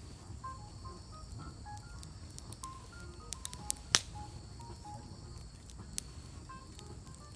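Wood campfire crackling with scattered sharp pops; the loudest pop comes about four seconds in.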